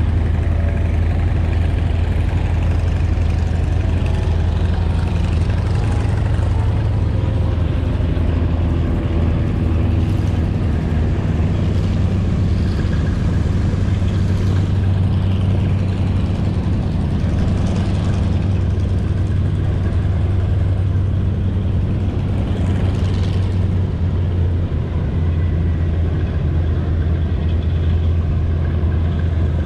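Radial piston engines of a B-17 Flying Fortress (Wright R-1820 Cyclones) running steadily, a deep continuous drone.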